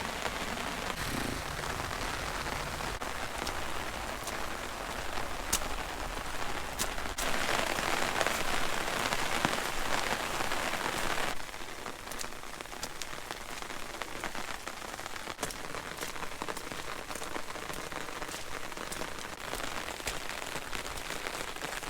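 Steady rain pattering on an umbrella held overhead. It gets heavier for a few seconds before the middle, then drops off sharply just past halfway.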